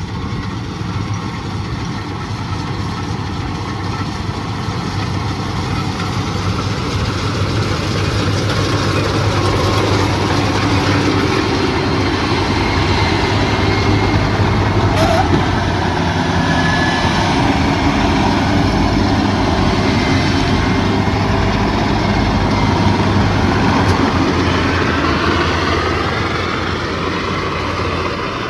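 Combine harvester running steadily at work, a dense engine and machinery noise over a constant low hum, growing louder over the first several seconds and then holding.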